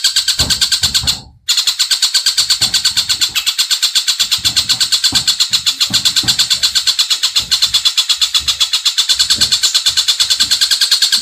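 Bird calls from a birdsong training recording: a fast, even, high-pitched trill that repeats about ten times a second, broken briefly about a second in, with irregular low thumps underneath.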